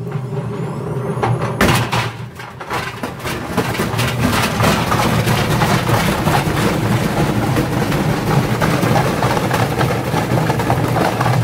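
Indesit washing machine with heavy bricks in its drum spinning up. A rising motor whine, then a loud bang, then rapid, continuous banging and rattling from the bricks over a steady low hum.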